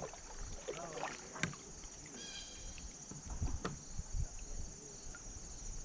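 Scattered light knocks and low thumps inside a kayak as a just-caught fish and lure are handled, over a steady high drone of insects.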